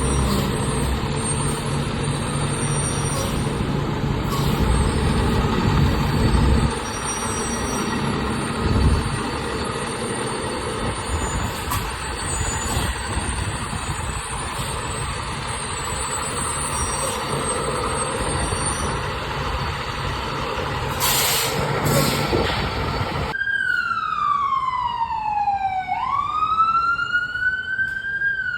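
Fire truck's diesel engine and road noise for most of the clip. Near the end this gives way suddenly to a siren wailing, its pitch sliding slowly down, back up and down again.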